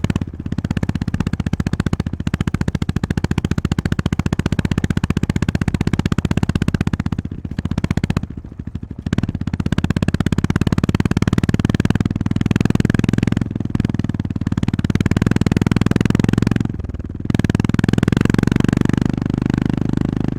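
Honda GB350S single-cylinder engine running under way. It eases off briefly twice, about eight and seventeen seconds in, then pulls again.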